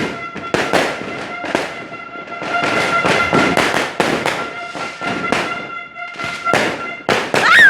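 Dense, rapid crackling and banging of New Year's fireworks and firecrackers going off without a break, under a steady high held tone. About seven and a half seconds in comes a wavering high-pitched sound, the loudest moment.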